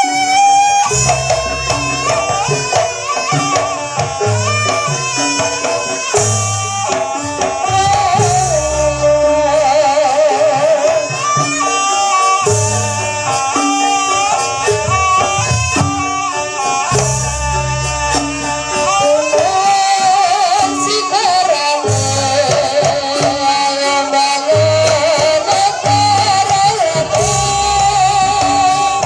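Live jaranan buto gamelan music: a wavering, vibrato-laden high melody over low drum strokes in a driving, repeating rhythm.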